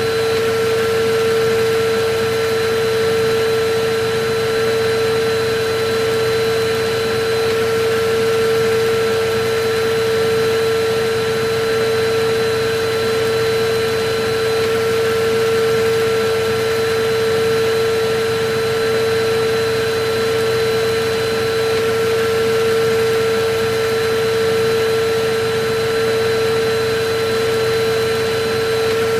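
Electric vacuum cleaner running steadily: an even rush of air with a constant motor whine.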